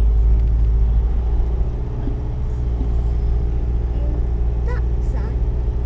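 A four-wheel-drive vehicle's engine running steadily, a low, even hum.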